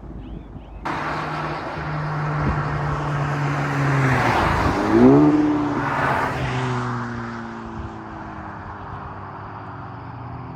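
Honda Civic Type R (FL5) with an AWE Touring exhaust driving past: the engine and exhaust note start abruptly about a second in, grow louder as the car approaches, peak with a quick dip and rise in pitch about five seconds in, then fade away.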